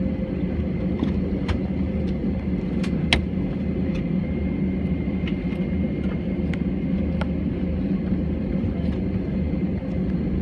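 Airbus A320 cabin noise on the ground before takeoff: a steady low rumble from the engines and cabin air, with scattered light clicks and rattles.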